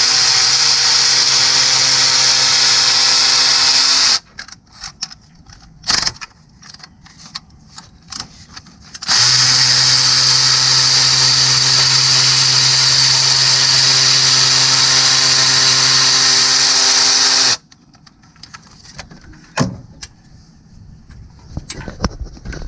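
Cordless power tool spinning a socket at a steady, unchanging pitch in two long runs: one ending about four seconds in, and another from about nine to seventeen seconds, with light clicks and knocks of socket and metal in between. It is running the timing cover bolts out of a 3.6L V6.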